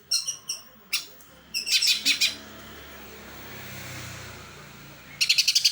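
Cucak ijo (green leafbird) singing sparrow-like chirps in the manner of a Eurasian tree sparrow: short high chirps, then a fast chattering burst about a second and a half in, and a rapid run of about six notes near the end. A steady hiss fills the pause between the bursts.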